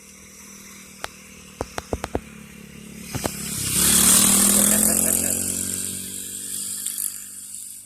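Small dirt bike engine revving as the bike rides past: it climbs in pitch and grows loud about four seconds in, then fades as it moves away. A few light taps come before it.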